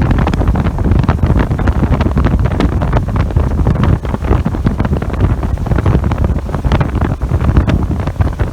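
Wind buffeting the microphone on a motorboat under way: a loud, constant low rumble broken by rapid gusty crackles.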